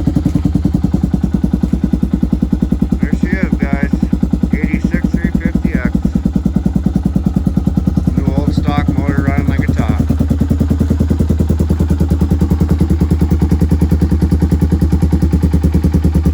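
Honda ATC 350X three-wheeler's single-cylinder four-stroke engine idling with a steady, even beat; it is a new-old-stock engine, described as running like a top.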